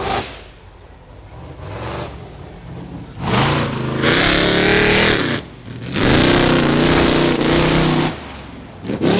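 Rock bouncer buggy's high-horsepower engine revving hard in two long bursts of about two seconds each, the first rising then falling in pitch, with short throttle blips at the start and near the end.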